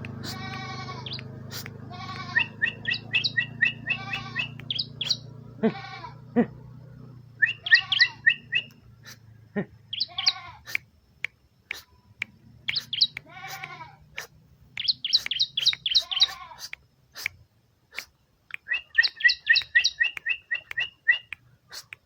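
Bar-winged prinia (ciblek) singing: phrases of a few swooping, falling notes followed by a quick run of high chips, repeated every two or three seconds. A low hum underneath fades out about a third of the way in.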